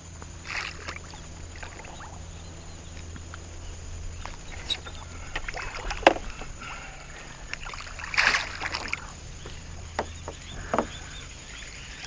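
Water splashing and scattered knocks against a small boat's hull: a sharp knock about six seconds in and the biggest splash a couple of seconds later, over a steady low hum.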